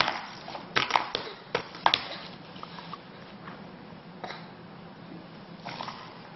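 Scattered light taps and knocks as a crawling baby moves about, most of them in the first two seconds and one more about four seconds in, over a low steady hum.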